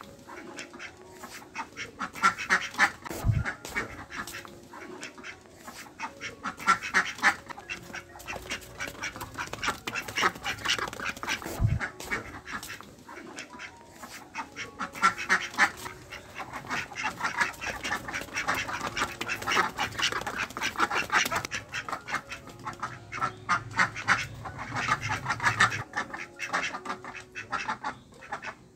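Ducks quacking in repeated runs of rapid calls, several birds calling over one another.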